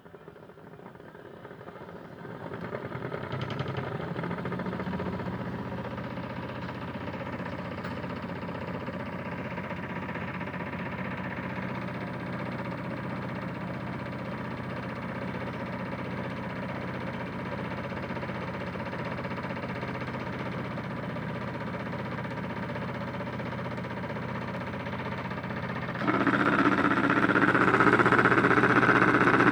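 Small electric motor of a Hotpoint toy washing machine running its modified spin, turning a flower-pot plate. It speeds up over the first few seconds to a steady hum, then suddenly gets louder near the end.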